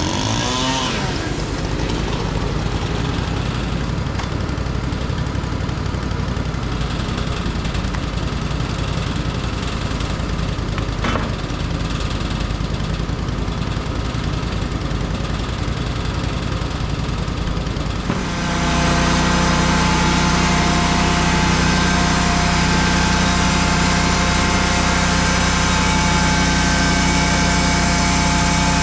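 An engine idling steadily, then throttled up about 18 seconds in to a louder, steady higher-speed run.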